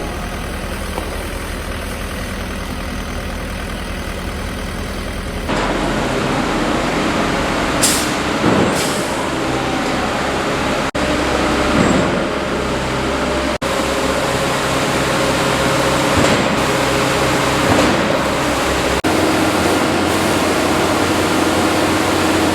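Heavy diesel truck engines running, typical of ready-mix concrete trucks at a slab pour, with a couple of short sharp hisses about eight and nine seconds in. The sound changes abruptly a few times.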